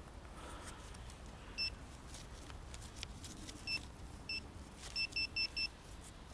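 Metal detector giving seven short, same-pitched beeps: three spaced apart, then four quick ones near the end, signalling metal in the ground.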